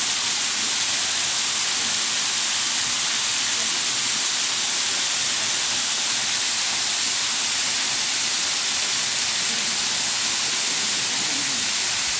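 Waterfall: falling water rushing steadily as an even, bright hiss.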